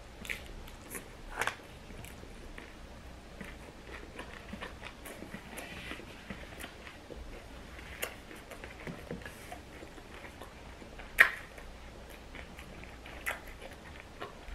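A person biting and chewing a crunchy fried tortilla nacho chip: small crunches and clicks scattered through, with a sharper click about eleven seconds in.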